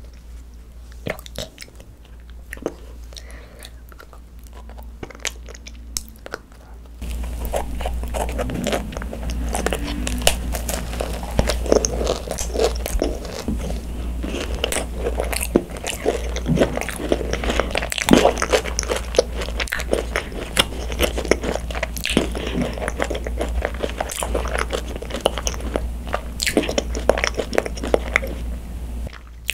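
Close-miked biting and chewing of a thick-filled macaron (ttungkaron): the crisp shell cracks in many small clicks along with soft, wet chewing. It is sparse at first and turns louder and denser about seven seconds in.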